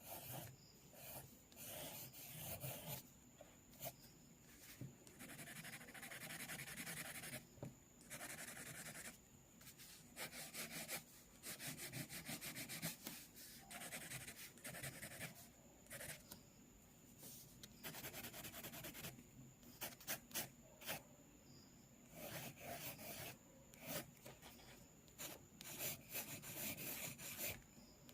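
Sketching on paper: drawing strokes scratching and rubbing across the page, some long and steady, others in quick runs of short strokes.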